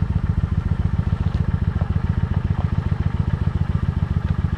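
Motorcycle engine idling steadily with an even, low pulsing exhaust beat while it warms up.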